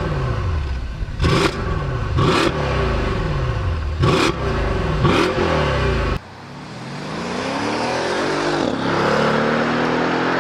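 Mercedes-AMG S63 engine revved in five sharp blips, each one rising quickly and falling away. After a sudden cut, the engine pulls hard under acceleration, its note climbing steadily.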